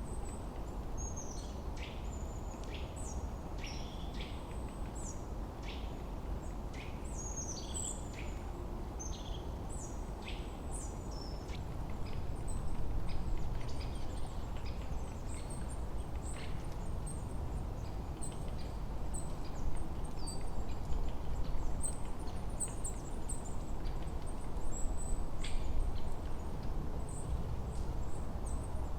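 Small songbirds chirping: many quick, high calls that sweep downward, thickest in the first half. Underneath, a steady low rush of wind swells louder about halfway through and again near the end.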